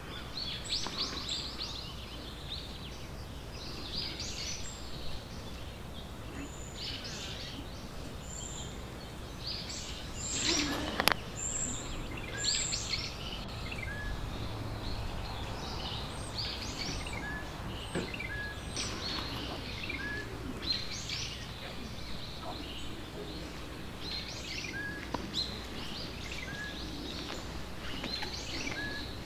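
Birds chirping and calling in short, scattered notes, with one short call repeated every second or two in the second half, over a steady low outdoor hum. A single sharp click comes about eleven seconds in.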